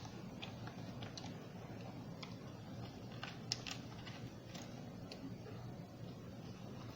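Small, irregular clicks and ticks of a screwdriver driving screws into the plastic top cover of a Roomba robot vacuum as it is fastened back down, over a faint steady hum.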